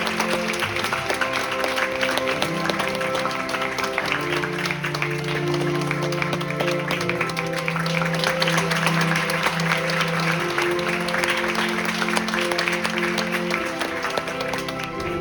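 Theatre audience applauding over curtain-call music with long held notes; the clapping fades out near the end while the music carries on.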